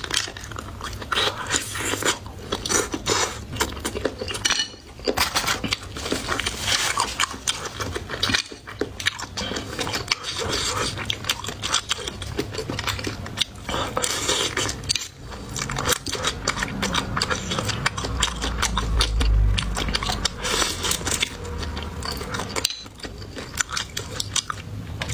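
A person eating close to the microphone: steady biting and chewing with many small clicks, mixed with cutlery clinking against dishes. A low thump about two-thirds through.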